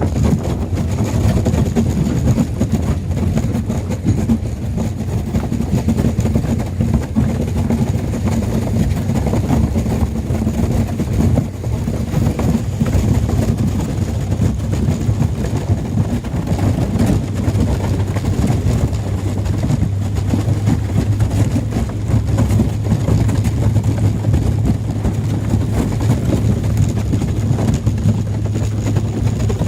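Small fishing boat's engine running steadily with a low hum, the hum growing stronger about two-thirds of the way in.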